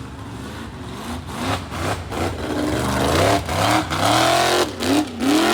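Monster truck engine revving, its pitch rising and falling repeatedly, getting louder about two and a half seconds in, with several brief dips in the sound.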